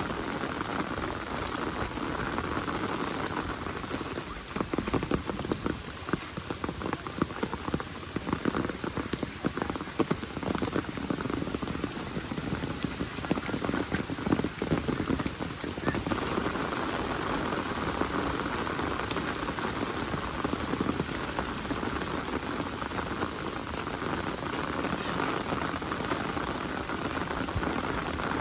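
Heavy rain falling steadily. From about four to sixteen seconds in, a stretch of louder, sharper drop impacts patters close by.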